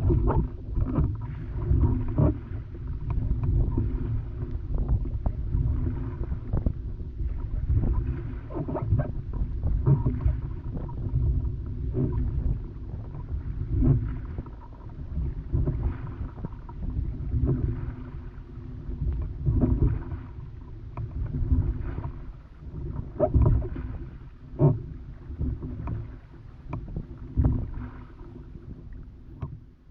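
Wind gusting over the microphone in a heavy low rumble, with water lapping and slapping against an inflatable raft and frequent small knocks.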